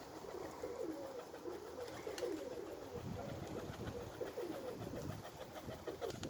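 Domestic pigeons cooing, several birds at once, their low coos overlapping continuously, with a few faint clicks.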